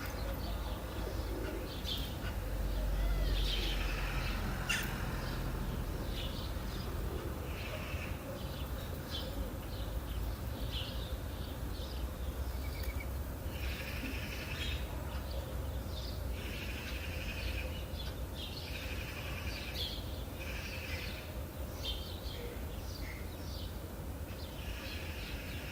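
Several birds chirping and trilling in short repeated phrases, over a steady low background rumble.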